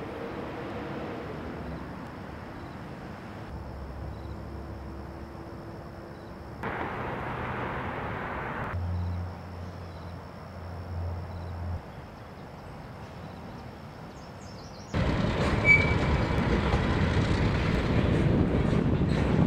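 Outdoor rail-yard ambience with a low steady hum, changing at a few hard cuts. About fifteen seconds in it jumps to a freight train of covered hopper cars rolling past, with loud wheel and rail noise.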